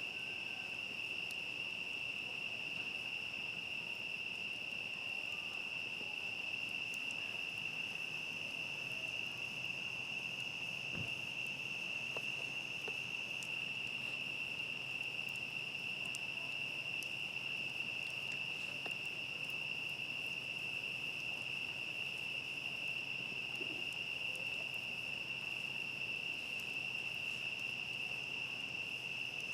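Crickets trilling steadily in a continuous high-pitched chorus at night, with a few faint crackles from a campfire.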